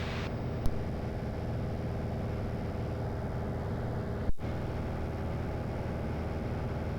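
Steady drone of a light aircraft's engine and propeller in cruise, with a short click and a brief dropout about four seconds in.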